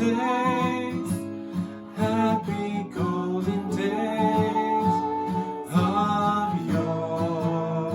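A song sung to strummed acoustic guitar.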